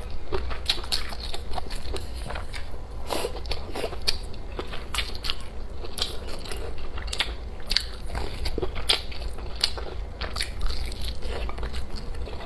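Close-miked chewing and biting of food: dense, irregular crunchy clicks and crackles, several a second, over a steady low hum.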